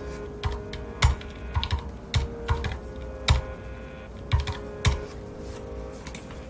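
Typing on a mechanical keyboard with red (linear) switches: irregular keystrokes that thin out about five seconds in, over soft background music.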